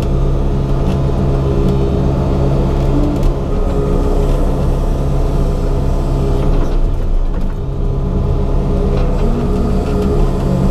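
Excavator diesel engine running steadily, heard from inside the operator's cab.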